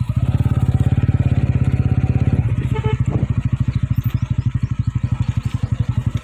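Single-cylinder motorcycle engine running steadily with a fast even beat while riding. About two and a half seconds in, a vehicle horn beeps briefly.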